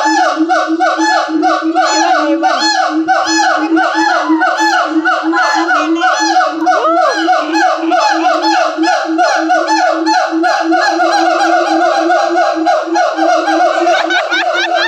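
A chorus of monkeys calling over one another: many rapid, repeated rising-and-falling calls at about four a second, layered over a steady lower pulsing tone.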